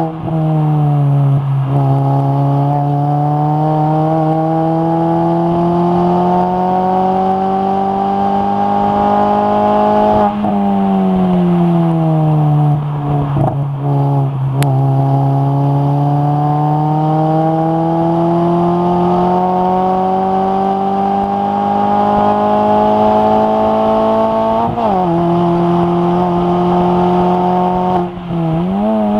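Mini race car's engine heard from inside the cabin under hard acceleration, its note climbing steadily with the revs. About ten seconds in the revs fall away as it lifts and shifts down for a corner, then climb again, with two quick upshifts near the end.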